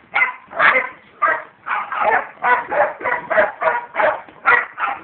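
Dog barking over and over in quick succession, about two to three barks a second.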